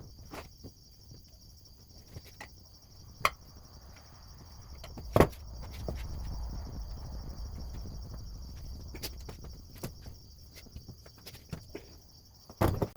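Scattered metal knocks and clicks of hands and tools fitting a motorcycle rear wheel, one sharp knock about five seconds in and a cluster near the end. A steady high cricket chirr runs underneath.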